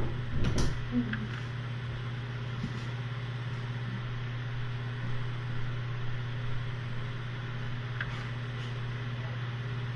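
Steady low mechanical hum, with a couple of light knocks in the first second and a faint click near the end.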